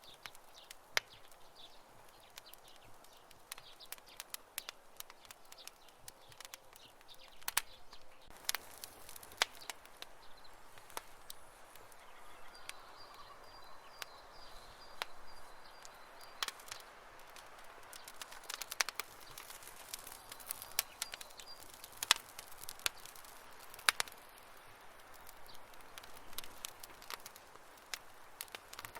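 Wood campfire burning: irregular sharp crackles and pops over a soft steady hiss. Around the middle, a faint high, rapid trill sounds in the background for a few seconds.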